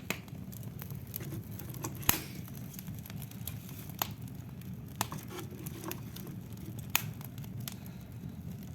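Wood fire burning in a fireplace: sharp, irregular crackles and pops of the burning wood, the loudest about two seconds and seven seconds in, over a steady low rumble.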